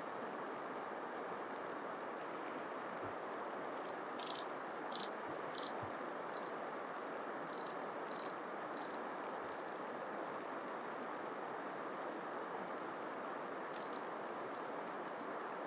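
A bird giving short, high call notes in an irregular series, starting about four seconds in and recurring until near the end, some in quick clusters, over a steady background hiss.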